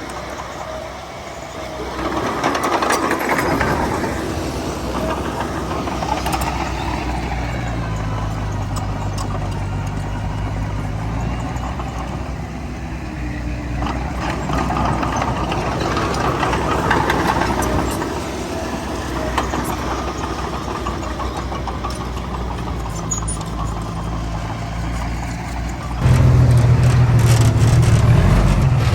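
Heavy diesel earthmoving machinery working: bulldozer and dump-truck engines running with a steady low hum that swells and eases under load. Near the end a much louder engine note comes in suddenly.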